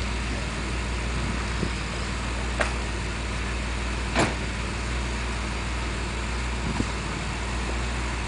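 DeLorean DMC-12's PRV V6 engine idling steadily as it warms up toward the temperature at which the electric cooling fans cut in. Two sharp clicks sound over it, about two and a half and four seconds in.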